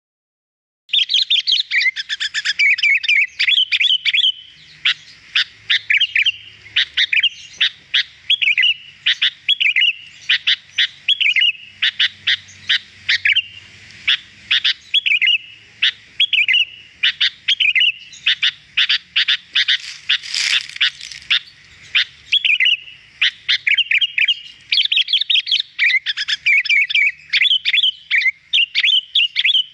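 Sooty-headed bulbul (kutilang) singing energetically and without pause: a clear, rapid stream of chirps and warbled phrases, beginning about a second in.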